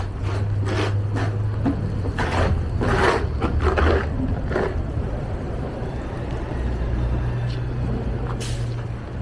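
Footsteps crunching in snow, a short noisy step about every half second, which stop about halfway through. A steady low rumble runs underneath, and there is a single sharp click near the end.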